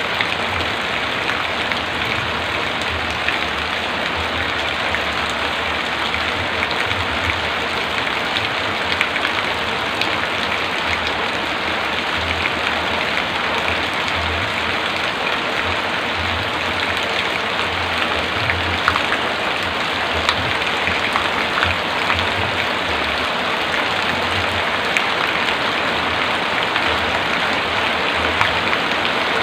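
Heavy rain falling steadily, an even hiss scattered with sharper ticks of individual drops.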